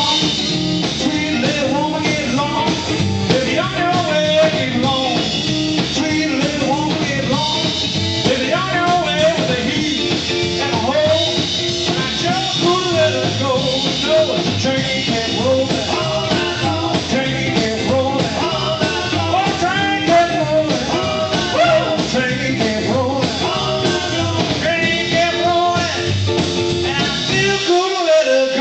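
A live rockabilly trio, made up of electric guitar, upright bass and drums, playing a driving jump-blues rockabilly number. The bass and drums drop out briefly near the end.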